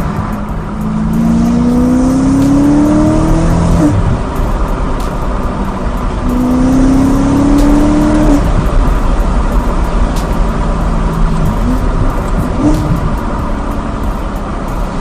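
BMW M3 E92's V8 through an Akrapovic exhaust, revving up twice in long rising sweeps of about three seconds each that drop off sharply, with a short blip of the throttle later on.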